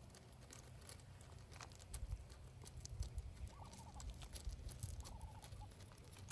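Muscovy ducks giving a few short, soft, wavering calls, about halfway through and again near the end, amid light clicks and taps.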